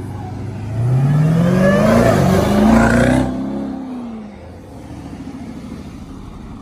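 Car engine at full throttle, revs climbing hard, briefly dropping at a gear change about two seconds in, then climbing again. It is loud for a couple of seconds as the car speeds past, then falls in pitch and fades, leaving a lower idling rumble.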